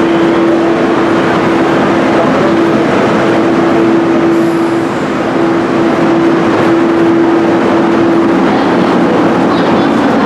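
Steady machinery drone with a constant hum.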